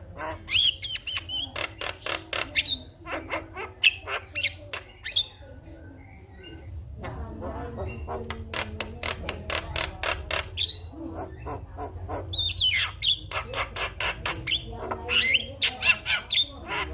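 Javan mynas (jalak kebo) chattering: rapid runs of sharp clicks and harsh squawks mixed with whistles that rise and fall, with a short lull about six seconds in.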